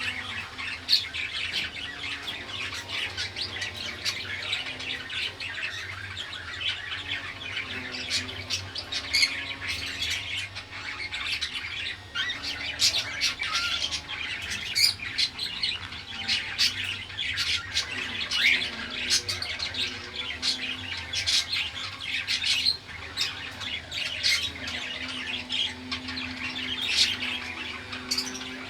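Caged pet birds chirping and squawking in a constant, busy chatter of short, quick calls.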